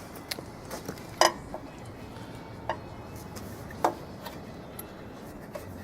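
Scattered sharp metal clinks and knocks of parts and tools being handled and set down, the loudest about a second in and just before four seconds in.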